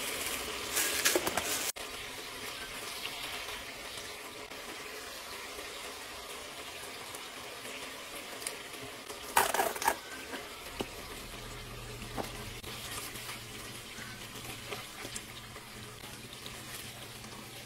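Hot dogs and eggs frying in a skillet of grease, sizzling steadily, with metal tongs and a ladle knocking against the pan now and then, loudest about ten seconds in.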